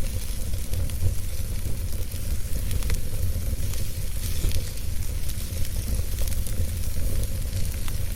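Wood fire burning: a steady low rumble of flames with scattered crackles and pops from the burning wood.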